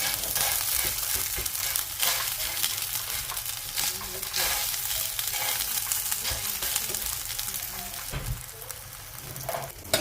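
Food frying in hot oil in a pan: a steady sizzle with a few louder pops and crackles.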